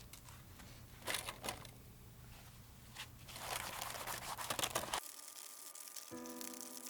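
Bursts of crinkling, scraping noise from something being handled, a short burst about a second in and a longer one from about three seconds that cuts off abruptly near five seconds. Background music with steady held notes comes in near the end.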